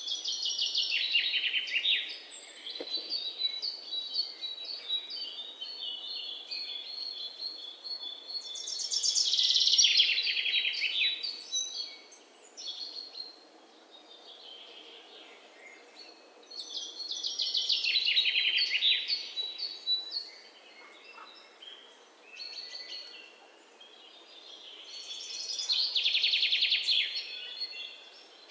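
Songbirds singing. One bird repeats a rapid, falling trill about two seconds long four times, roughly every eight to nine seconds, with softer chirps from other birds in between.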